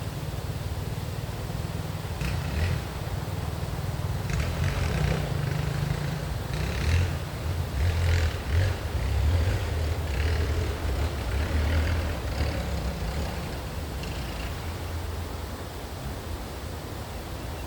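Off-road dirt bike and quad engines riding past, a low rumble that swells from about two seconds in, with several short revs at its loudest around the middle, then fades away.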